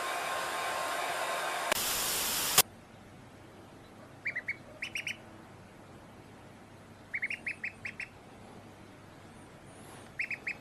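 A loud, steady rushing noise cuts off abruptly about two and a half seconds in. After it a duck calls in short, high-pitched runs of three to six quick notes, four times.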